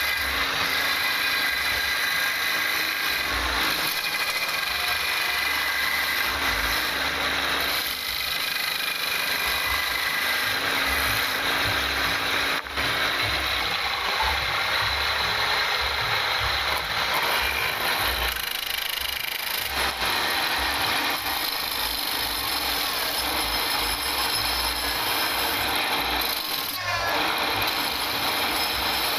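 Wood lathe running, with a turning tool cutting the spinning wood: a steady, even noise.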